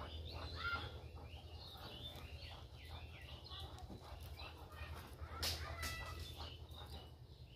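Birds chirping repeatedly over a steady low hum, with a sharp knock about five and a half seconds in.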